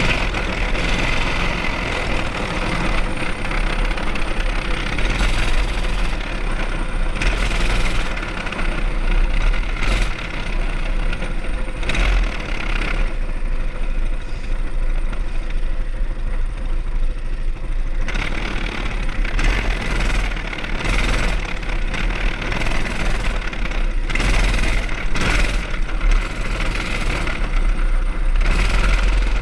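Mini bike's small engine running as it is ridden. The throttle eases off for a few seconds around the middle, then opens up again.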